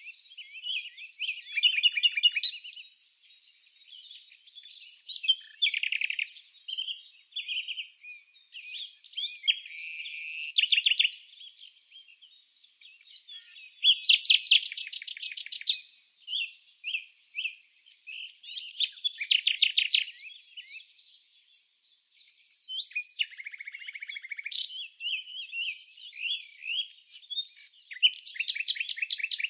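Birdsong: a mix of short chirps and whistled notes broken by several fast, rattling trills of rapidly repeated notes.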